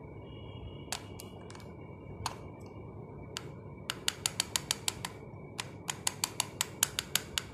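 Parakeet making sharp clicking sounds in reply to a "tuk tuk" prompt: a few single clicks, then two quick runs of about six or seven clicks a second.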